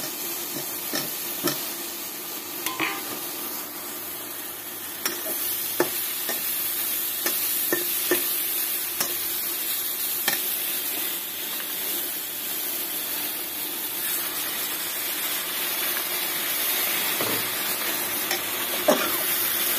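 Potato cubes sizzling as they fry in hot oil and spice paste in a non-stick kadai, with a steady hiss. A metal spatula scrapes and clicks against the pan now and then as the potatoes are stirred.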